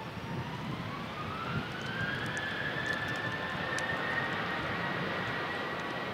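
Boeing 737-800's CFM56-7B jet engines spooling up for takeoff: a rising whine over a steady rush of jet noise, levelling off into a steady high whine after about two seconds.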